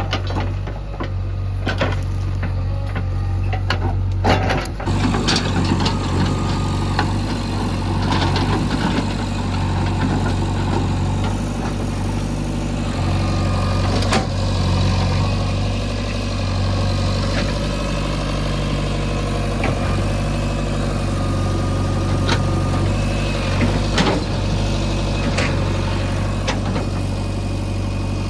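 Heavy diesel engine running steadily at a low idle-like hum, with a few sharp metallic knocks.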